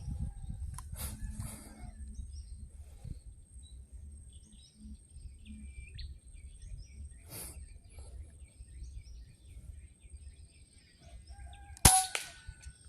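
Wild birds chirping faintly over a low outdoor rumble, then near the end a single sharp crack of an air rifle shot with a brief metallic ring.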